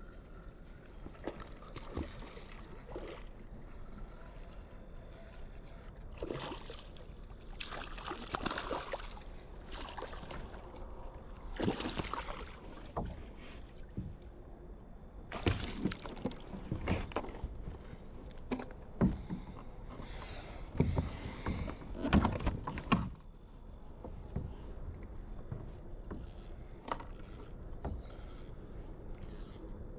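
Kayak paddle strokes in river water: irregular splashes and drips, heaviest through the middle of the stretch, then easing off.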